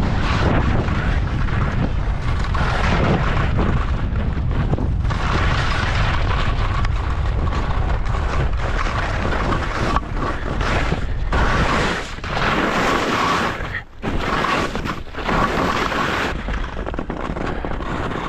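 Wind rumbling and buffeting on the microphone while skiing, loud and steady, easing off briefly twice near the end.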